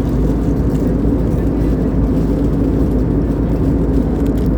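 Steady drone of an airliner cabin in flight, made of engine and airflow noise with a constant low hum underneath.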